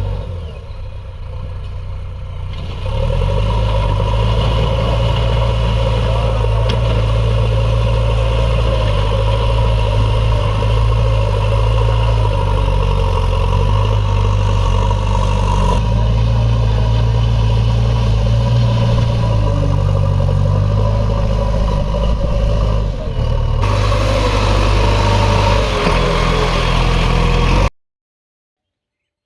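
JCB 3DX backhoe loader's diesel engine running hard while it works, its note shifting as the load and throttle change. The engine comes up louder about three seconds in, and the sound cuts off suddenly near the end.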